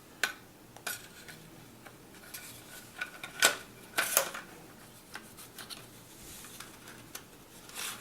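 Handling clicks and knocks of hard plastic and metal parts as a part is fitted back onto an airsoft carbine: a dozen or so sharp clicks and clinks at uneven intervals, the loudest a little past three and four seconds in.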